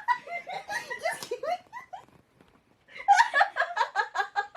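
A group of friends laughing: a first burst of laughter, a brief pause, then a second run of quick, rhythmic laughter near the end.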